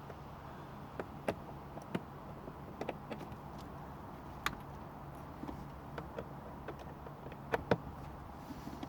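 Irregular light clicks and knocks of hand tools and plastic dashboard trim being worked loose, about a dozen in all, the loudest two close together near the end, over a steady low hum.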